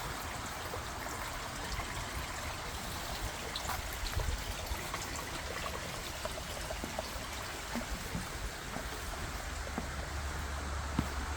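A small forest stream running with a steady rushing trickle, with faint scattered crackles over it.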